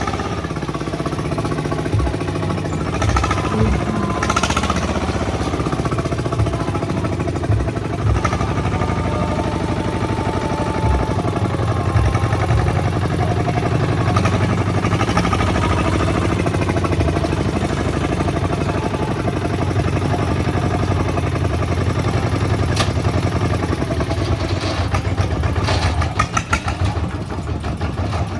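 Kubota diesel tractor engine running steadily, with several short knocks or clunks in the first few seconds.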